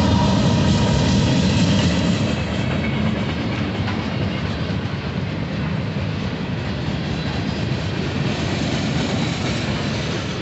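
Union Pacific freight train rolling past close by, a steady rumble of steel wheels on the rails that gradually gets quieter.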